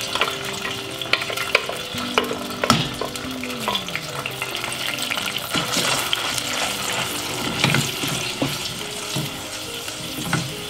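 Blended chili spice paste sizzling and frying in hot cooking oil in a stainless steel saucepan, stirred with a wooden spatula. Scattered clicks and knocks of the spatula against the pot run through the frying hiss.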